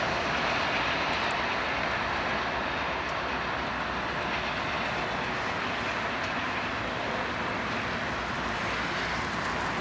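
Steady, even rumble of a distant freight train on the line, with wind buffeting the microphone.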